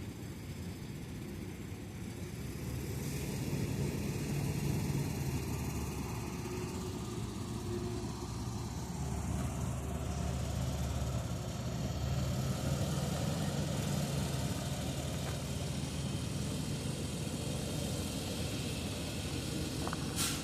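Engine of harvest machinery running steadily, growing louder a few seconds in.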